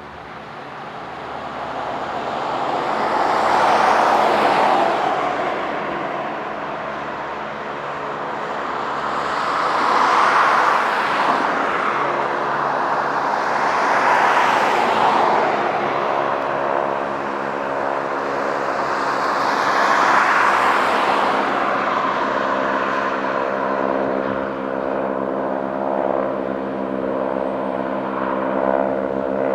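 Harvard trainers' nine-cylinder Pratt & Whitney radial engines flying by, the sound swelling and fading several times, loudest about 4, 10, 14 and 20 seconds in. From about halfway through a steady engine drone runs under the passes.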